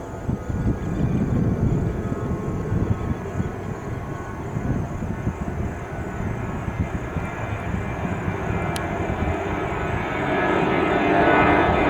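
Airbus A319 jet engines at takeoff power, a steady low rumble that grows louder and fuller about ten seconds in as the airliner comes closer.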